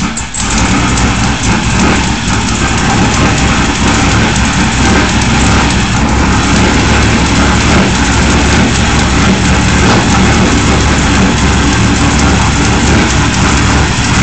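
Engine fitted with a 'Polluter' performance camshaft idling steadily and loudly on its first start-up, running without a tune.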